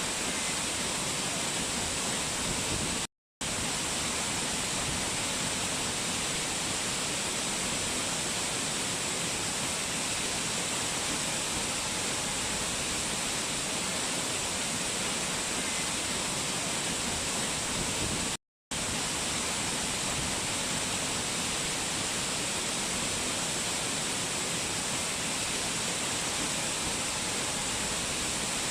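Mountain waterfall and fast-flowing water rushing in a steady, even hiss. Two brief total dropouts in the sound, about three seconds in and again after about eighteen seconds.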